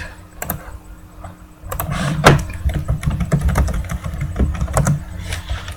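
Irregular clicks and taps of typing on a computer keyboard, most of them bunched a little under two seconds in. Low thumps and rumble of desk handling lie beneath.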